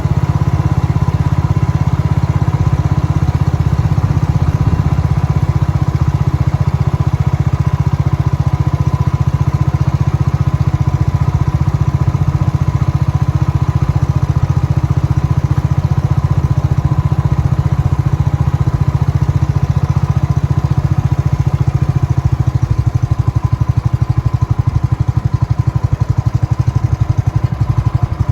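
Steady engine and travel noise of a moving vehicle: a loud, low drone with fast, even pulsing that runs on without a break.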